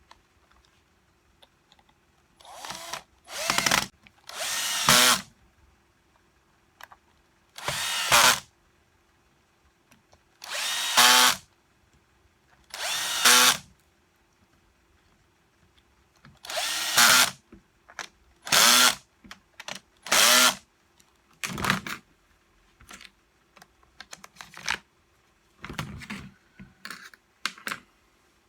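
Power drill-driver run in about a dozen short bursts, each roughly half a second to a second long, its pitch rising as it spins up, as when driving screws during reassembly.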